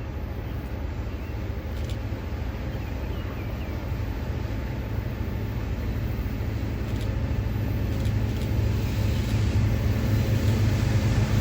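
Diesel locomotive engine rumbling low and growing steadily louder as the train approaches.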